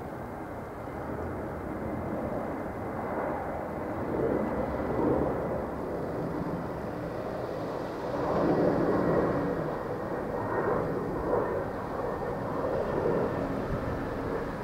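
Irish Rail 8100-class DART electric multiple unit approaching along the track. Its wheels on the rails make a steady rumble that grows louder, swelling in places as it draws near.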